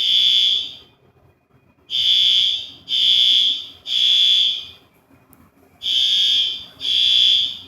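Fire alarm sounding a high, piercing tone in groups of three long beeps, with a short pause between groups: the temporal-three evacuation pattern.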